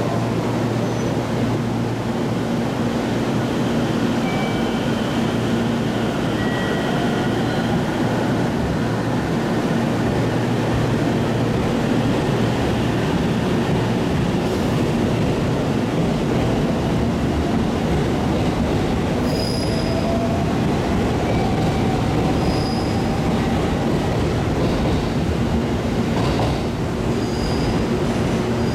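JR Central 313 series electric train pulling out and running past: a steady rumble of wheels on rail with motor tones rising in pitch as it gathers speed. Short high wheel squeals come now and then in the second half.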